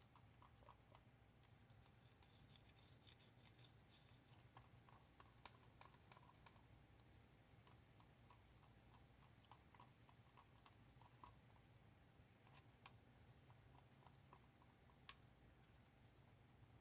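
Near silence with faint, scattered light clicks and taps and a brief scratchy scrape, as small craft tools work in a cup of tinted resin.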